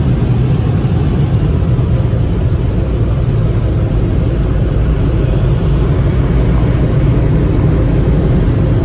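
Sonny's car wash tunnel dryers running: a loud, steady rush of blown air over the car with a deep rumble, heard from inside the car.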